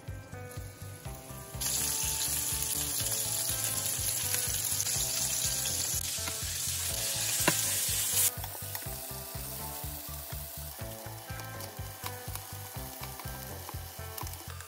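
Beef burger patties frying in hot oil in a skillet: the sizzle jumps up sharply about a second and a half in, as a patty goes into the oil, and stays loud until it drops back to a quieter steady sizzle about eight seconds in. Background music with a steady beat runs underneath.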